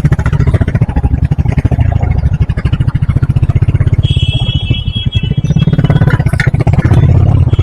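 Motorcycle engine running steadily at highway speed, a low rumble with fast even firing pulses, with wind noise over the rider's microphone. A high steady tone sounds for about two seconds midway.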